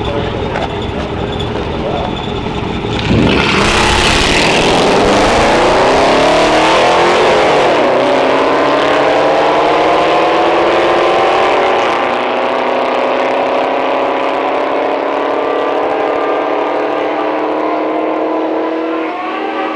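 A car on a drag strip idling, then launching about three seconds in and accelerating hard down the track, its engine note climbing steadily in pitch. The pitch steps down about twelve seconds in, and the sound fades away near the end.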